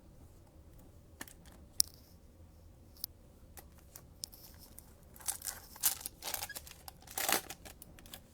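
A few light clicks and taps, then from about five seconds in a run of crinkling and tearing as a trading-card pack's wrapper is torn open and the cards are handled.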